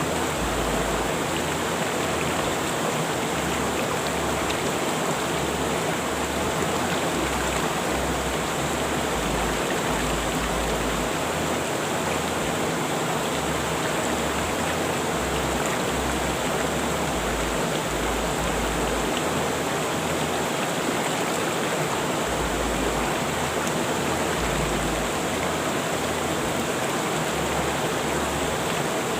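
A river rushing steadily: the unbroken sound of flowing water.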